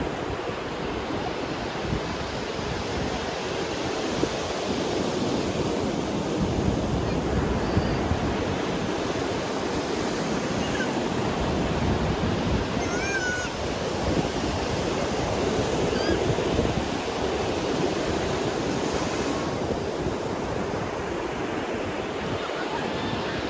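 Ocean surf: waves breaking and washing up a beach in a continuous rush that swells and eases. A few faint high chirps come about halfway through.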